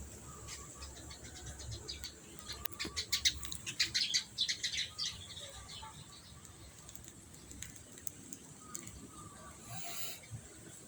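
Brown-throated sunbird calling: a fast run of sharp, high chirps that builds to its loudest about three to five seconds in, then a few scattered single notes.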